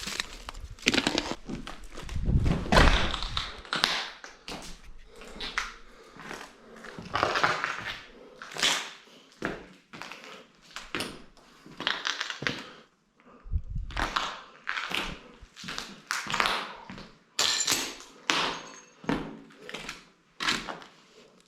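Irregular footsteps with scattered thunks and taps as someone walks around inside a small room of an abandoned building.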